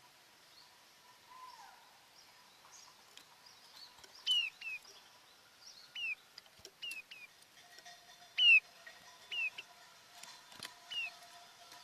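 A bird calling in short, high chirps that sweep quickly downward in pitch, singly or in quick pairs, every second or two after a quiet opening few seconds.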